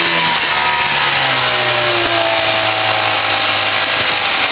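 Nissan 30 hp outboard motor throttling back from full speed, its pitch falling steadily over about four seconds.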